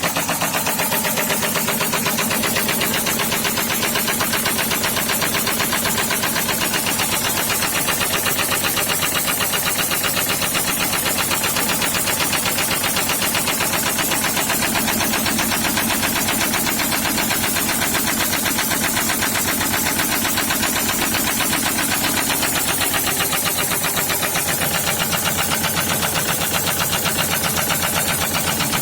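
SsangYong Kyron's D20DT four-cylinder diesel idling steadily with a fast, even knock: the fourth cylinder knocking after oil starvation from a failed oil pump.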